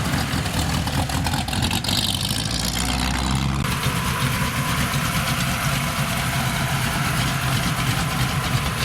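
Car engine running steadily with a low drone, with a haze of road or wind noise over it; the sound shifts abruptly about three and a half seconds in.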